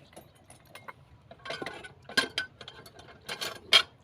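Metal clinking and knocking: light scattered clicks, then several sharper, louder knocks from about a second and a half in, the loudest near the end.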